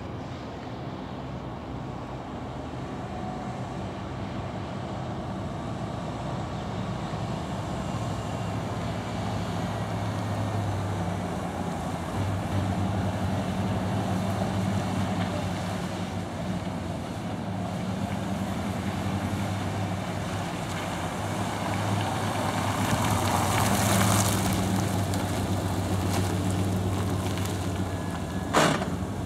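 1992 Chevrolet Silverado 1500 pickup's engine running steadily with a low hum, growing gradually louder. A brief rush of noise comes about two-thirds of the way through, and a single sharp click sounds near the end.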